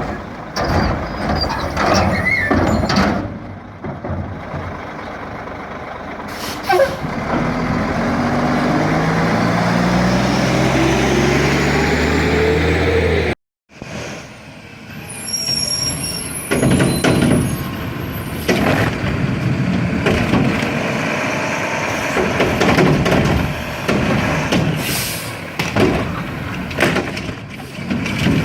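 Garbage trucks at work: a diesel engine revs up with a rising pitch as the packer runs, amid clanks and bangs of the can and packing gear and air hisses. The sound cuts out for a moment about halfway, then more banging and clattering follows.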